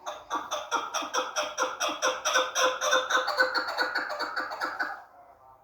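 Chukar partridge calling: a fast, even run of rhythmic clucking notes, about five a second, that stops about five seconds in.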